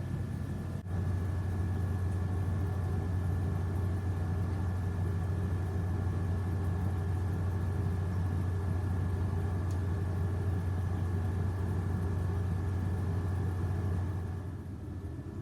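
Steady low hum of a running appliance motor with a faint constant high whine. It drops a little near the end.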